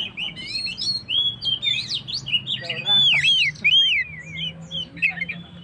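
Oriental magpie-robin (kacer) singing a fast, varied run of whistled notes, with sliding and arching phrases. A faint steady low hum sits underneath.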